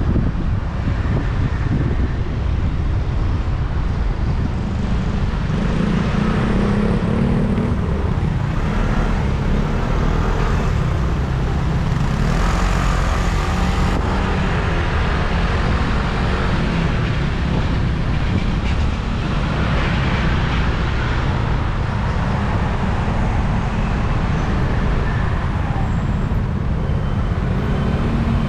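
Wind rushing over a helmet-mounted camera on a moving motorcycle, over the motorcycle's engine and road traffic, with traffic swelling louder twice.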